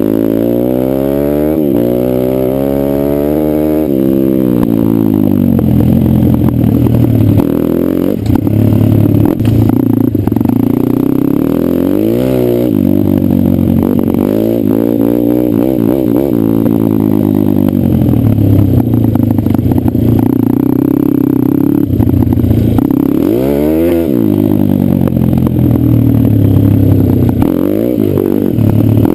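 Pit bike's small single-cylinder engine working hard off-road, its pitch repeatedly climbing under throttle and dropping off as the rider accelerates, shifts and backs off.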